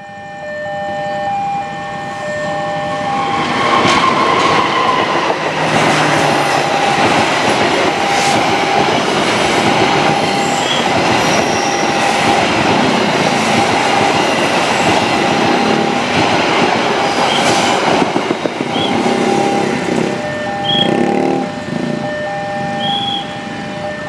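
A passenger train hauled by a CC 206 diesel-electric locomotive passes at speed with a loud, steady roar of wheels on the rails, lasting about fifteen seconds. A level crossing warning bell rings over it in an on-off pattern, and motorcycle engines pick up near the end as traffic moves again.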